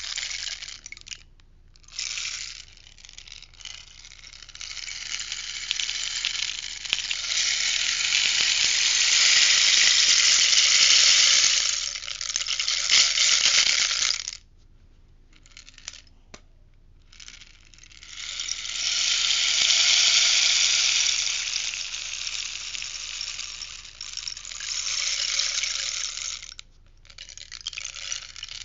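Rainstick tipped and turned, its fill pattering down the tube in two long cascades of about ten seconds each, with a quiet gap of a few seconds between them and short bursts near the start.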